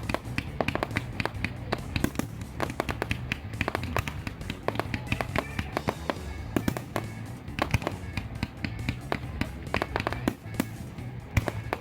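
Fireworks going off in quick succession: many sharp cracks and bangs, with crackling, over background music.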